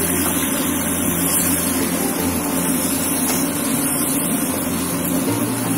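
Chicken masala sizzling and simmering in a black iron wok on a gas stove just after water has been added, stirred with a wooden spatula, over a steady low hum.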